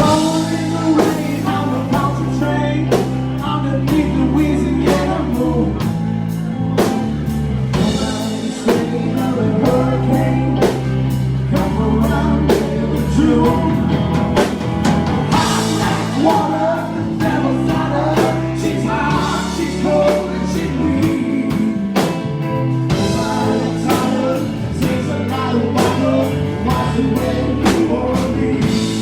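Live rock band playing: drum kit keeping a steady beat under bass and guitar, with a wavering lead melody on top.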